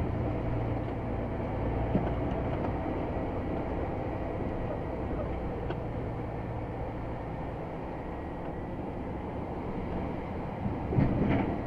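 Scania XT G500 truck's 13-litre straight-six diesel running steadily with a low, even drone. A brief louder sound comes near the end.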